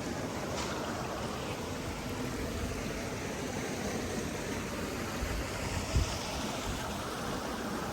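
Flowing stream: a steady, even rush of running water. A short low thump comes about six seconds in.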